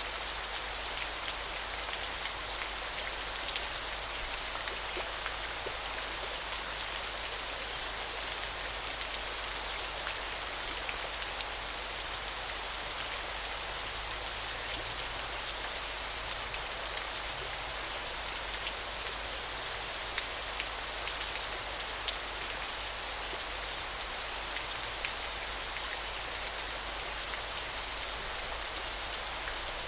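Steady hiss of flowing river water. Over it, a thin, high-pitched trill repeats in phrases of one to two seconds, pauses briefly midway, then resumes.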